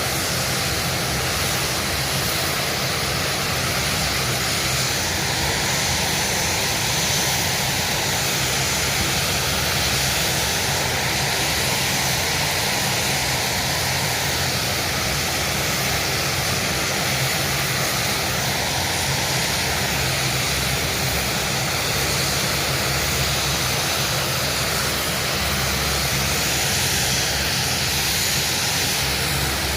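Aircraft engines running steadily, a loud continuous rush with a tone that slowly wavers up and down.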